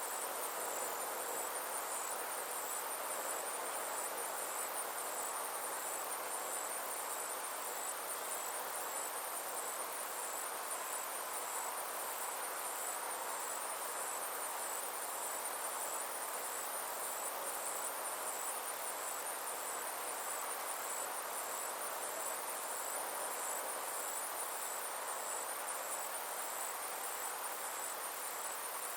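Steady chorus of summer insects calling: a high, evenly pulsing trill over a continuous lower hiss of further calling.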